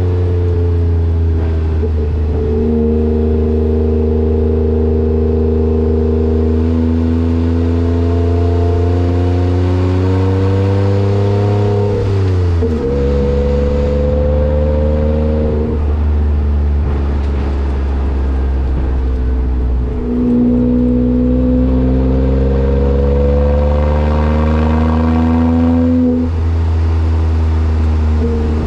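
Kei truck's 660 cc three-cylinder engine running through an aftermarket muffler, its exhaust note climbing slowly in pitch as the revs build. The pitch falls back sharply about halfway through and again near the end, as at gear changes.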